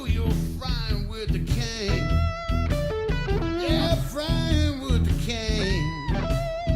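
Blues music: an electric guitar lead playing bending notes over bass and a steady beat.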